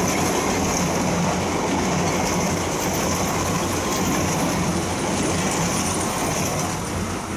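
London Underground train running through the station: a steady rumble with a high hiss above it.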